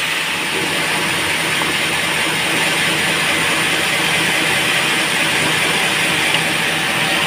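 Band sawmill running with a steady, even noise, without a break.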